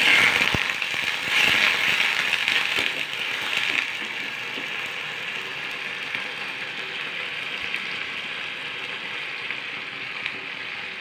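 Onion, tomato and green-chilli masala sizzling in a kadhai on a gas stove, with a little water in it so the tomatoes soften. The sizzle is louder for the first few seconds, then settles to a steady, lower hiss, with a few light clicks.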